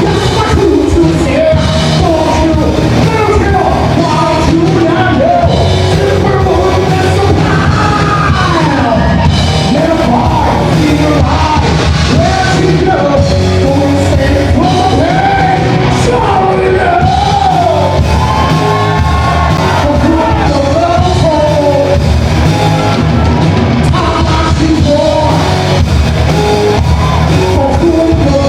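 Live band playing loud rock music with a singer's voice over it, amplified and echoing in a large hall.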